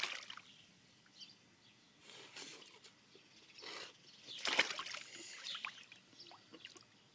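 Faint, intermittent water splashes and sloshing, a few short bursts a second or so apart.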